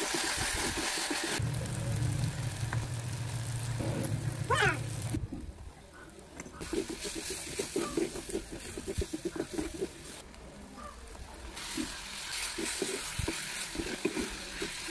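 Onion and tomato masala sizzling in a clay pot while a wooden spatula stirs and scrapes against the pot in quick strokes. For a few seconds near the start a steady low engine-like hum runs underneath, with a brief wavering whistle about four and a half seconds in.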